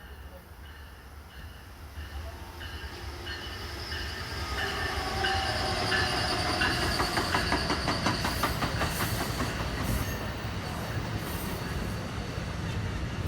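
Passenger train on the Northeast Corridor approaching and passing at speed, growing louder over the first several seconds. As the cars go by, the wheels click rapidly over the rail joints.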